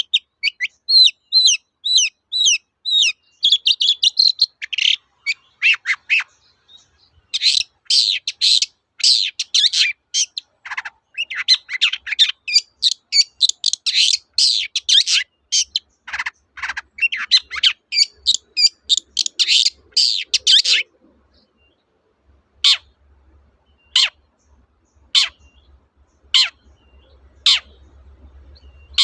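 Long-tailed shrike (cendet) singing: fast, dense chattering runs of short high notes. After a brief pause about two-thirds of the way in, single sharp downslurred notes repeat about once a second.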